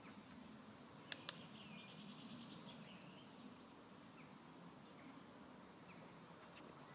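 Quiet outdoor ambience with a few faint, high chirps of small birds, and two sharp clicks close together about a second in.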